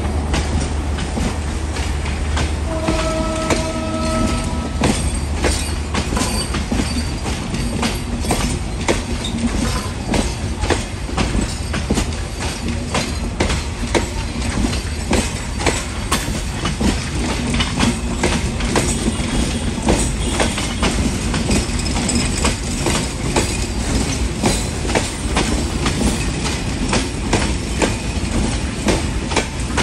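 Passenger train passing, its wheels clacking rapidly over the rail joints over a steady rumble. A brief horn blast sounds about three seconds in.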